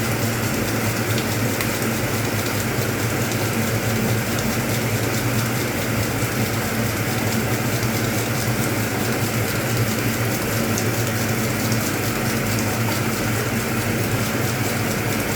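Hoover Automatic 820 washing machine running near the end of its wash: a steady low hum under a constant rush of splashing water.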